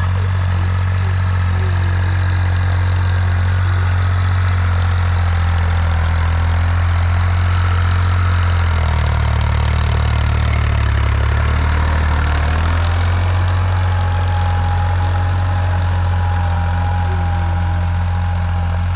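Heavy diesel engine running steadily, picking up speed for a few seconds about halfway through, then dropping back.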